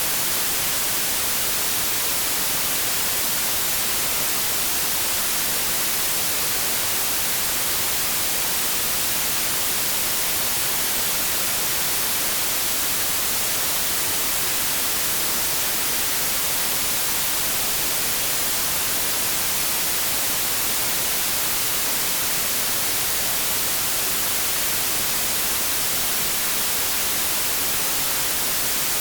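Generated white noise: a steady, even hiss, strongest in the high end, with no changes or breaks.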